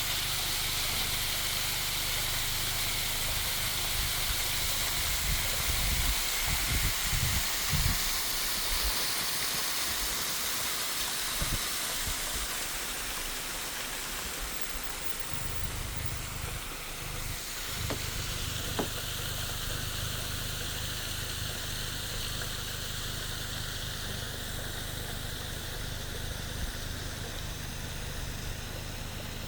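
Steady hiss of rain and running water, with a low uneven rumble underneath that is strongest about six to eight seconds in.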